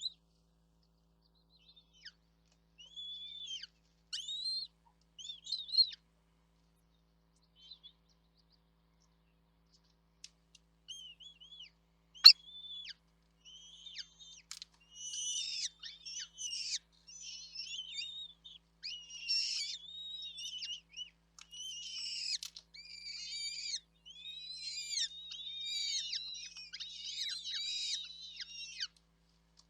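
Small birds chirping at a nest: a few scattered high calls at first, a sharp click a little before halfway, then a dense run of rapid, overlapping high chirps from the chicks begging for food.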